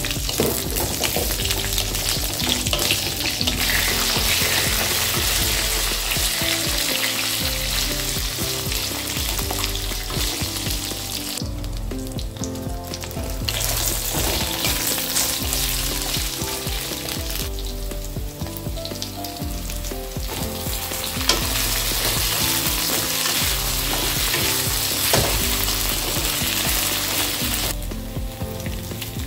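Eggplant and potato pieces frying in hot oil in a kadai (Indian wok), sizzling steadily while a wooden spatula stirs and turns them against the pan. The sizzle drops away briefly about three times.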